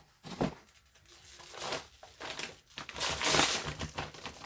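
Plastic packaging crinkling and rustling in irregular bursts as a spool of PLA filament is handled, loudest about three seconds in.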